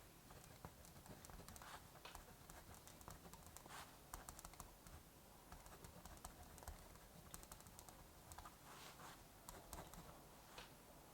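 Faint crackling of a wood fire, irregular sharp pops and clicks, over a soft, steady hiss of rain.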